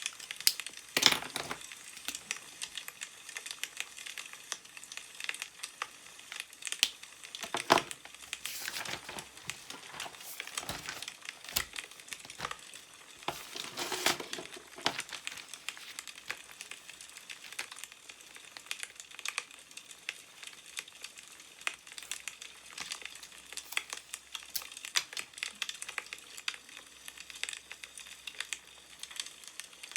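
Wood fire crackling, with scattered pops, under newspaper pages being handled and turned: louder paper rustles about a second in, around eight to nine seconds in, and around fourteen seconds in.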